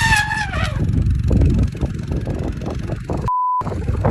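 A short, high cry that falls in pitch and fades, then rough scuffling noise, cut by a brief censor bleep near the end.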